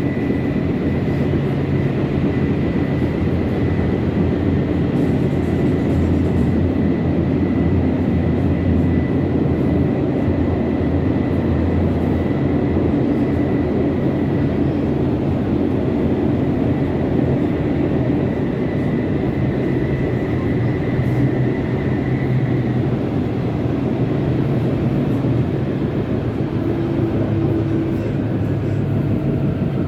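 Tram running on its rails: a steady rumble with a thin high whine that fades out about twenty seconds in.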